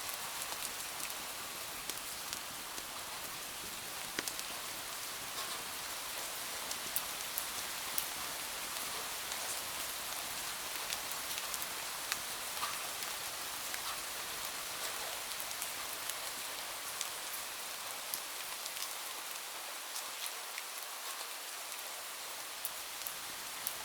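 Steady rain falling, an even hiss sprinkled with scattered sharp ticks.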